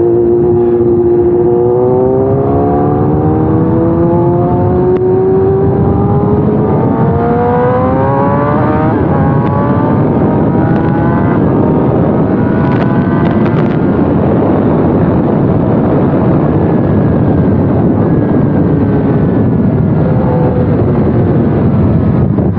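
Kawasaki ZX-10R inline-four engine pulling the bike up to speed in traffic, its pitch climbing slowly over the first nine seconds or so. After that it settles into a steady mix of engine and wind noise.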